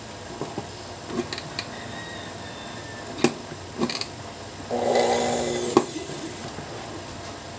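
Scattered clicks and knocks of handling, then a small AC sewing-machine motor running with a steady hum for about a second, ending in a sharp click.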